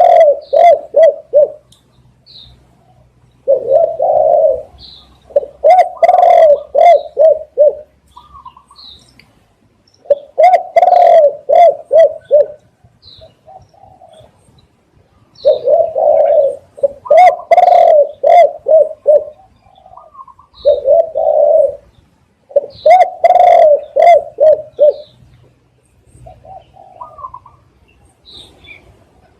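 Spotted dove cooing: phrases of several low coos in quick succession, a new phrase every few seconds with short pauses between. Faint higher chirps of other small birds sound in the gaps.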